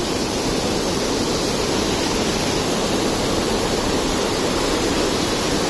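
Steady, loud rush of flowing water from the stream and waterfall, loud enough to make a voice hard to hear.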